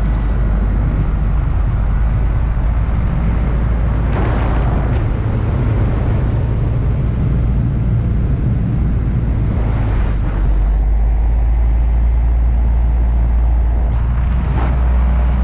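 Paramotor engine running steadily, mixed with wind noise rushing over the microphone, with gusty surges about four seconds in and near the end.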